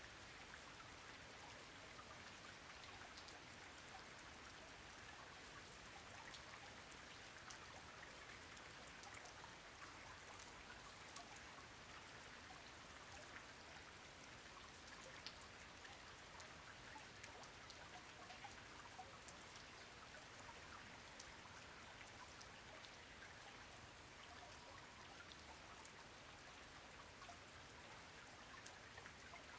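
Faint, steady rain falling on a pond, with a dense scatter of small drop ticks over an even hiss.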